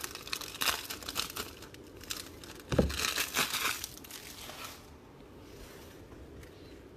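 Plastic wrapper of a trading card pack crinkling and tearing as it is pulled open by hand, a pack that resists opening. There is a dull knock about three seconds in, and the crinkling stops a little before five seconds.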